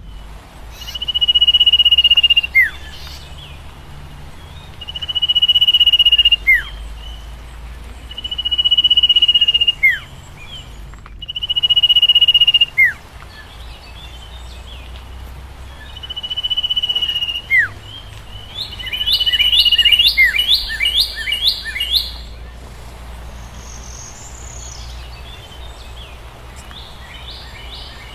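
A songbird whistling a long, steady note that ends in a quick falling note, repeated six times every three to four seconds. The last phrase breaks into a fast run of short rising chirps about twenty seconds in.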